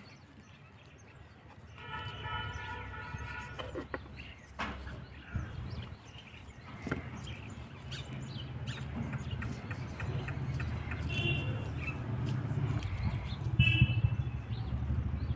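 Birds calling, with one longer call about two seconds in and two short high calls near the end, over a low rumble that grows louder through the second half. A few light knocks come from hands and utensils working dough on a wooden cutting board.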